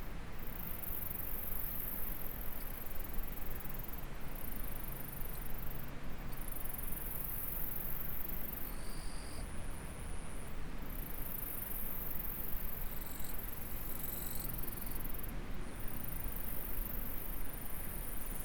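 Insects trilling steadily at a very high pitch over the even rushing of a stream, the trill breaking off briefly a few times. A few short, higher insect or bird notes come in around the middle.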